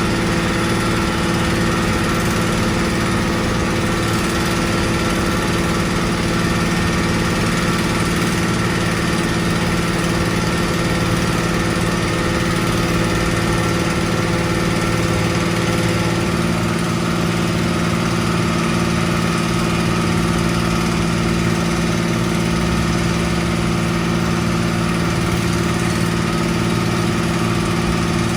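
Construction machine's engine running steadily, a continuous even drone with a slight shift in pitch about halfway through.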